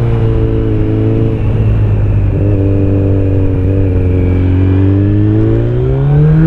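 Kawasaki Z900's inline four-cylinder engine through an Akrapovic exhaust, running at low revs with the pitch sagging a little, then rising steadily over the last second or two as the throttle opens.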